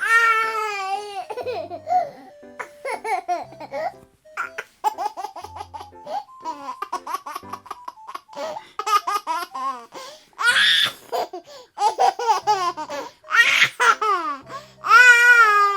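Baby laughing: runs of quick giggles broken by high-pitched squeals, with louder squealing bursts near the end.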